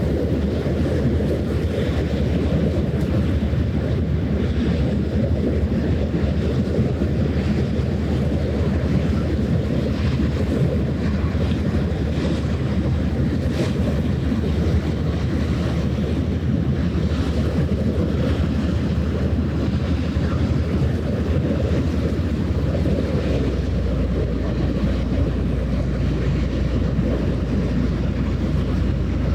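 Wind buffeting the microphone over open water, a steady low rumble, with waves lapping and splashing at the shore.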